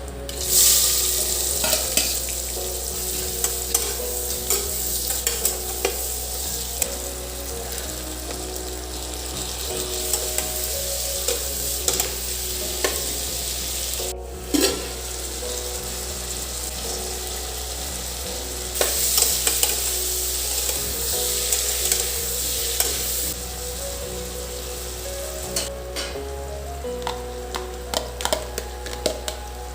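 Food sizzling as it fries in a hot pan, with a spatula stirring and scraping in frequent clicks. The sizzle swells louder at the start and again about two-thirds of the way through.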